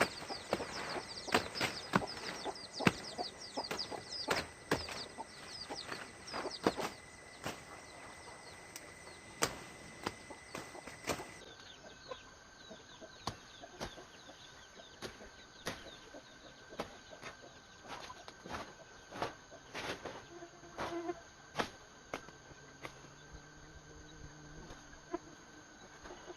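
Chickens foraging, with chirps and clucks among many short sharp clicks and scratching sounds; the sound changes abruptly about eleven seconds in.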